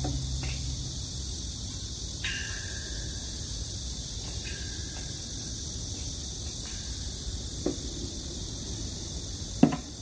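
Outdoor background: a steady high hiss and a low rumble, with a few faint short chirps and light clicks, and a sharp click near the end.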